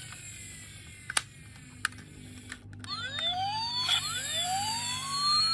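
Two sharp clicks, then about three seconds in a toy vehicle's electronic siren starts, wailing in rising sweeps.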